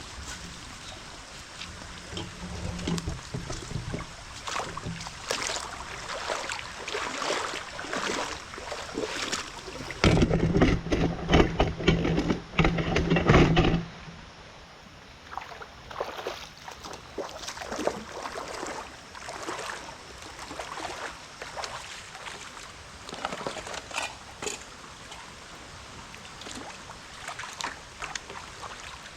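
Water sloshing and splashing in a shallow stream, in irregular bursts, with a louder stretch of sloshing about ten seconds in that lasts around four seconds.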